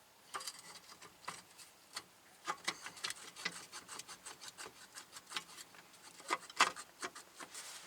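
Metal scraping and irregular clicks and knocks as a wheel hub bearing assembly is worked into place in its mounting. The loudest knocks come about two-thirds of the way through.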